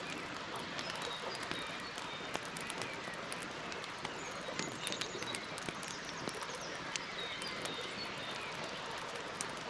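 Campfire burning with a steady hiss and frequent sharp crackles and pops. Faint bird chirps can be heard behind it.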